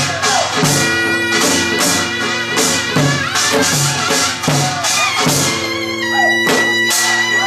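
Korean traditional folk music accompanying the dance. Percussion strikes a regular beat, with low drum thumps and bright metallic hits, under a wavering reedy wind melody with a long held note near the end.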